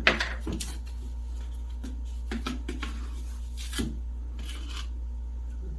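Kitchenware being handled: scattered clicks and knocks, the loudest right at the start and another about four seconds in, with a short rustle just before five seconds, over a steady low hum.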